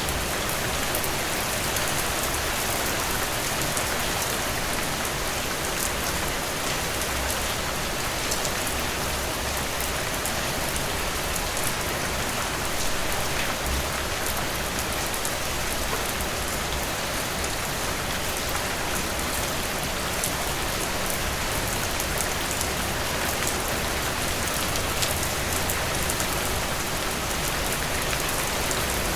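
Heavy rain falling steadily in a dense downpour, with the fine patter of drops hitting a surface.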